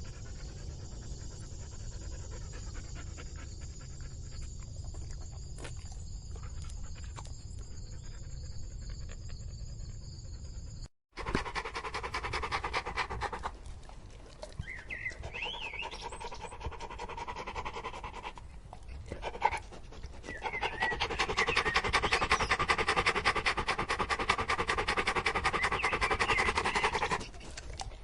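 Dog panting rapidly, many short breaths a second. About eleven seconds in the sound cuts out briefly and a different, louder recording of a dog panting follows, pausing twice before getting louder.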